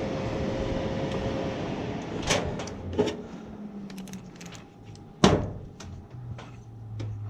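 A steady hum of running equipment for the first two seconds, then a series of sharp knocks and clatters of things being handled, the loudest about five seconds in.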